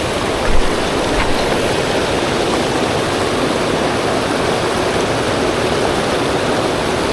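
Steady rushing of a fast-flowing forest stream, with a brief low thump about half a second in.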